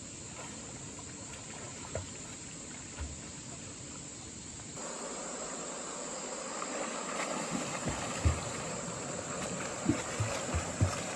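Insects drone steadily over the flowing water of a stream. The water noise grows louder about halfway through, and a few soft, low knocks come near the end.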